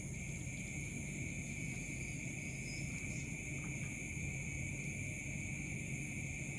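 Steady, unbroken high-pitched chorus of crickets, at several pitches, over a low continuous hum.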